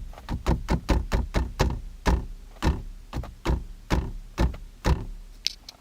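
Kia K9 rear-seat headrest being knocked repeatedly, a quick uneven series of sharp rattling knocks, about four a second. It is the loose-headrest rattle that sounds over bumps and rough roads.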